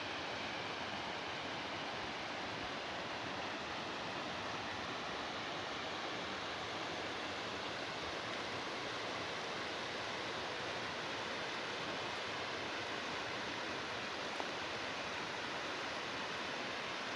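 Water running steadily in a canal, a continuous even rush.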